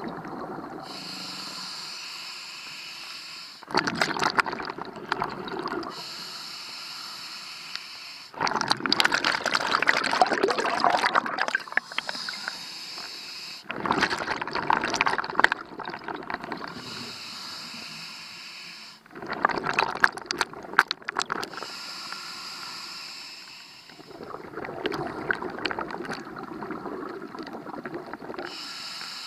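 Scuba diver breathing through a regulator underwater: a steady hiss on each inhalation alternating with five loud gurgling bursts of exhaled bubbles, about one breath every five seconds.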